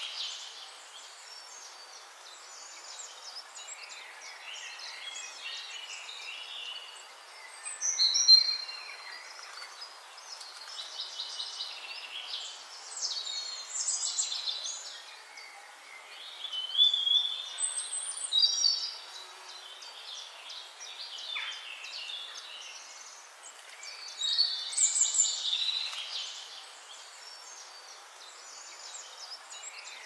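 Small birds chirping and twittering in short high-pitched bursts every few seconds, the loudest about eight seconds in, over a faint steady outdoor hiss.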